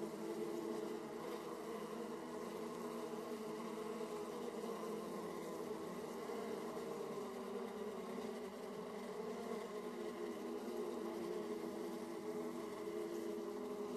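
Honeybees buzzing at the hive entrance: a steady, dense hum of many bees flying and crowding at the flight hole, the overlapping wingbeat tones shifting slightly as individual bees come close.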